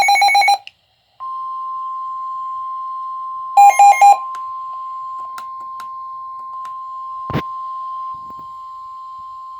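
Weather radio alert: a burst of rapid electronic beeps stops about half a second in, then the steady single-pitch warning alarm tone near 1 kHz (the 1050 Hz Weatheradio Canada alert tone) sounds, marking a warning broadcast. About four seconds in, three loud short beeps at a lower pitch sound over the tone, and a single click comes near the end.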